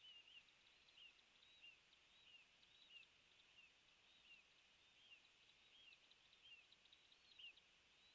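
Faint bird chirps: many short, quick notes scattered throughout, several a second, over a soft high hiss.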